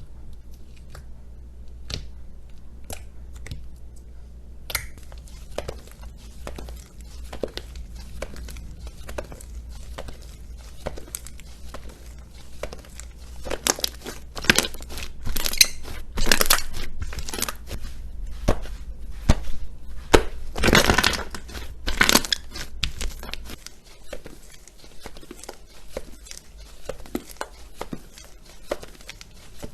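Slime being handled, squeezed and stretched: a run of sticky clicks and small crackling pops, sparse at first and then dense, with louder crackling stretches about halfway through and again a little later.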